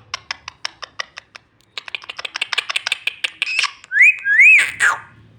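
Green pet parrot making a run of sharp clicking chirps, then a quicker, denser burst of chirps. It ends with two loud whistles that rise and fall, shortly before the end.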